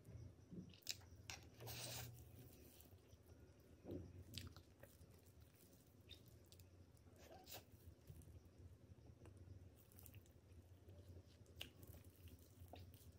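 Quiet, close-up chewing of soft cream cake, with scattered wet mouth clicks and lip smacks over a faint steady low hum.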